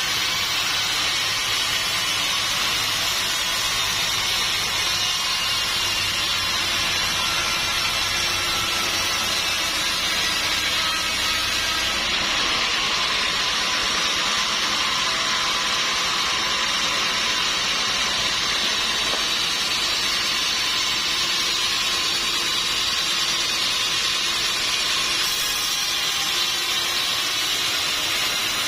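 Sawmill saw running steadily through a teak log, a loud, even machine noise.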